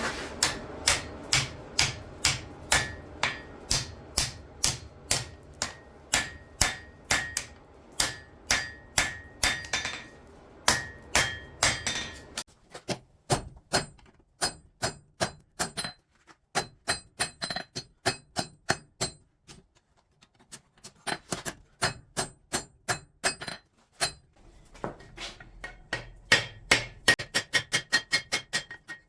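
Steel being forged with a hammer on an anvil: a steady run of ringing blows, about two or three a second, over a low hum. The blows pause briefly twice past the middle, then come faster near the end.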